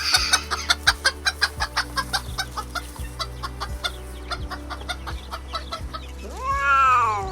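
A hen clucking in a rapid series of short calls, about five a second, fading over several seconds. Near the end a cat lets out one long meow that rises and then falls.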